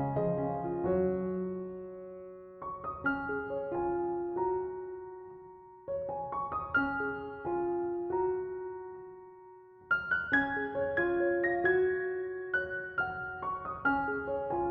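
Slow, gentle piano music: soft phrases of struck notes that ring and fade, a new phrase starting every three or four seconds.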